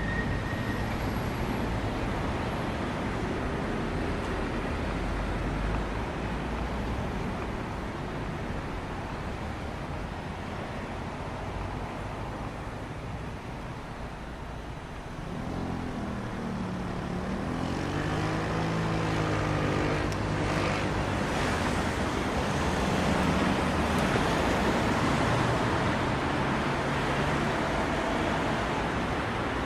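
Road traffic noise with a steady rush. About halfway through, a motor vehicle's engine comes up, its pitch rising and falling, and the noise grows louder afterwards.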